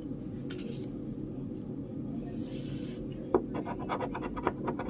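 Scratching the coating off a paper scratch-off lottery ticket. It is faint at first, with a brief hiss about halfway, then a quick run of short scrapes through the second half.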